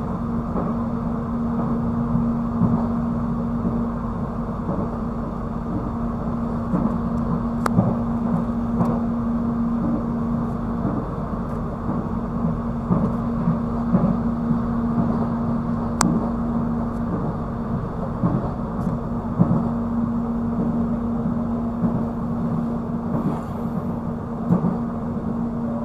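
Airport rail-link train heard from inside the carriage while running at speed: a steady rumble with a constant hum, and a few sharp clicks, the clearest about eight and sixteen seconds in.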